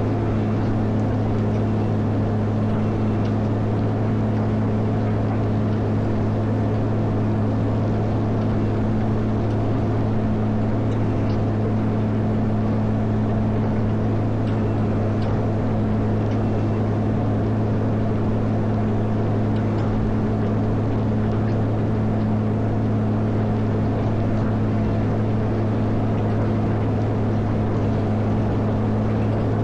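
Caterpillar 140M motor grader's diesel engine running steadily at an even speed, a constant low drone with no change in pitch.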